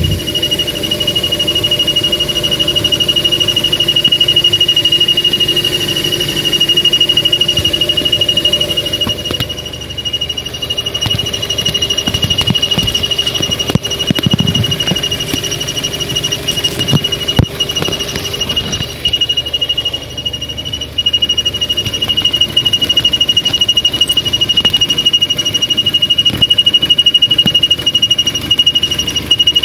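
A continuous high-pitched whistle held at one steady pitch, from a source that has not been identified, under a low, uneven rumble with a few knocks.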